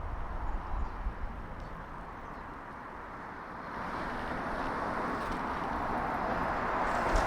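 Street sound recorded from a moving bicycle: wind rumble on the microphone at first, then traffic noise that swells steadily from about three and a half seconds in as a vehicle draws nearer.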